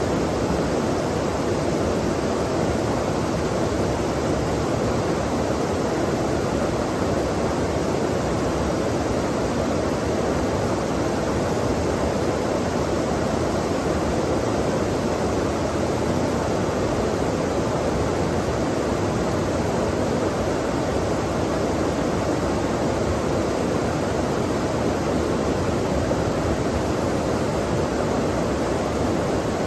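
Flowing stream water making a steady, even rushing sound.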